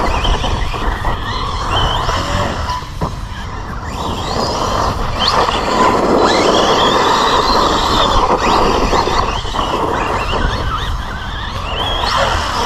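Team Associated Rival MT10 RC monster truck running on 3S, its brushless motor whining up and down in pitch as the throttle is worked, over a steady rush of noise and a few sharp knocks.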